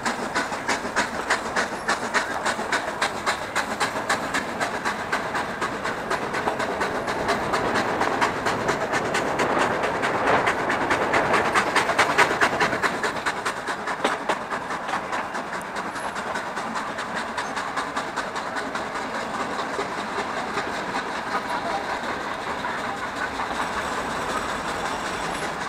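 Nilgiri Mountain Railway train running on the track, its coach wheels clattering rapidly over the rail joints. The clatter swells louder about ten seconds in, then eases off.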